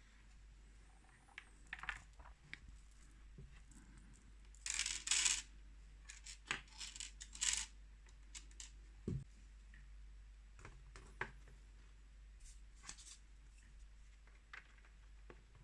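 Small plastic building-block pieces clicking and rattling as they are handled and pressed together, with a few louder clattering bursts about five and seven seconds in.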